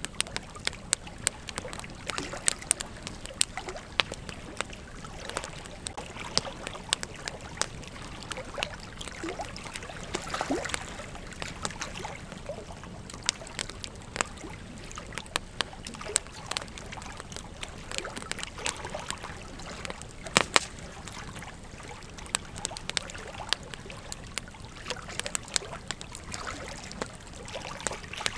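Campfire burning: a steady crackle with frequent sharp pops and snaps, now and then a louder pop, the loudest about twenty seconds in.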